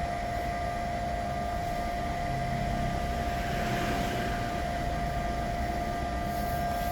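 Steady electrical whine at one pitch, with fainter higher tones, over a low background rumble.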